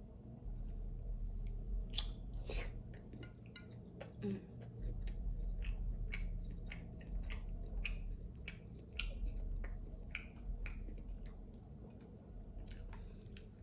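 Close-miked eating of crab legs: chewing with many sharp, irregular clicks and cracks of shell being bitten and pulled apart, over a faint low hum.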